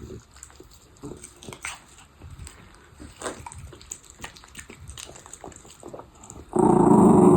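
Dog chewing on a duck leg: scattered crunches and bone clicks. About six and a half seconds in, a loud growl that lasts about a second.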